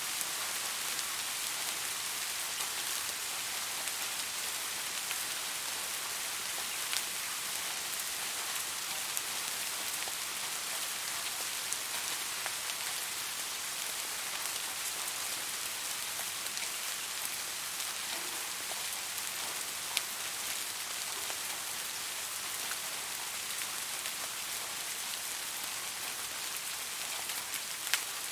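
Soft, steady rain falling, an even hiss with scattered drop ticks and a few louder single drops.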